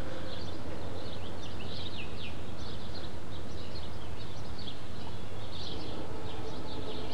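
Small birds chirping busily: many short, high chirps in quick succession, some sliding downward, over a steady low hum.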